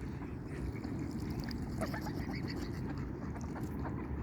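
Outdoor pond ambience: a steady low rumble with faint, scattered short high chirps.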